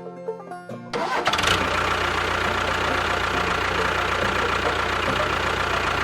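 Banjo music breaks off about a second in and an engine starts up, then runs loud and steady with a fast, even firing beat.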